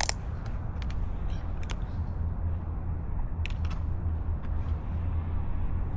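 Motorcycle under way: a steady low rumble of engine and wind noise on the mounted camera's microphone, with a few light clicks.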